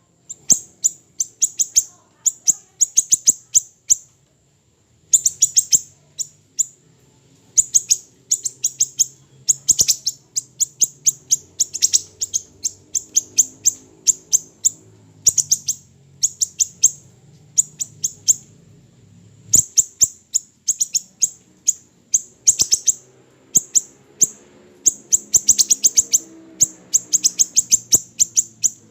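A small siri-siri kecil songbird calling: fast runs of very high, sharp chirps in bursts of about a second, repeated again and again with short pauses between them. A faint low hum sits underneath.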